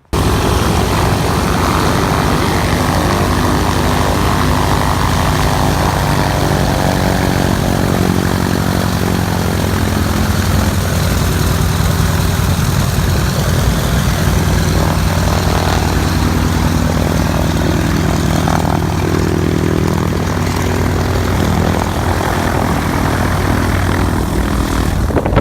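Douglas DC-3's radial piston engines running loud and steady close by, propellers turning, with rushing wind from the propeller blast.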